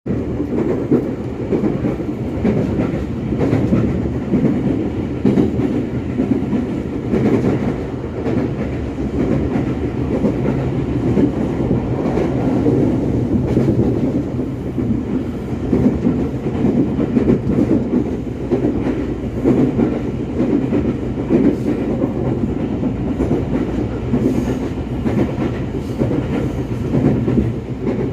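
Inside a moving KRL commuter electric train: a steady low rumble of the wheels on the track with a constant hum, and scattered clicks from the rails.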